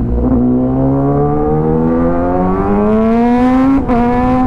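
Kawasaki ZX10R inline-four with an Arrow full exhaust system accelerating, its note climbing steadily, then a quick upshift near the end that drops the pitch before it starts climbing again.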